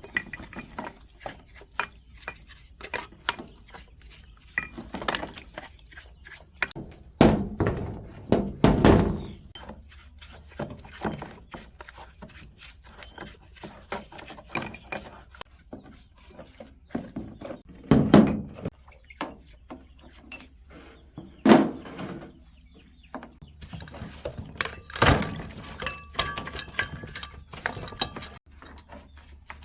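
Hands working on small engine parts: scattered clicks and knocks of metal parts and tools, with several louder thumps spread through.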